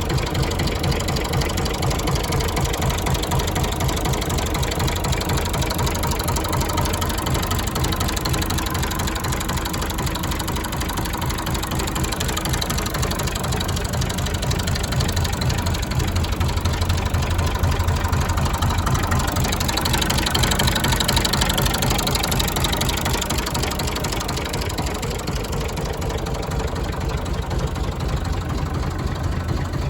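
1965 Massey Ferguson 135 tractor engine idling steadily, briefly a little louder about two-thirds of the way through.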